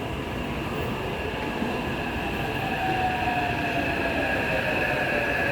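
Taipei Metro C381 subway train pulling into the station with a steady running rumble. From about halfway through, the electric motor whine falls steadily in pitch as the train slows.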